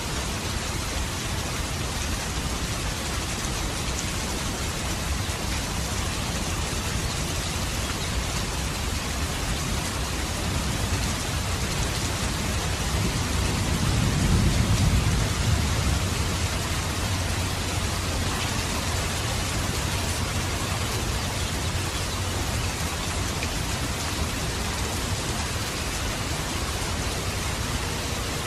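Steady rainfall, with a low rumble of thunder that swells and fades about halfway through.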